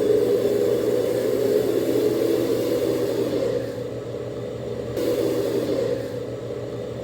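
Small RC 4x4 dump truck's electric motor and gearbox whirring as it drives, easing off about three and a half seconds in and picking up again briefly around five seconds.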